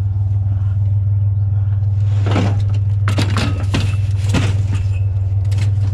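Truck engine idling with a steady low hum. Between about two and four and a half seconds in there are several sharp metal clanks and knocks, some ringing briefly, as a metal barbecue grill is handled and loaded.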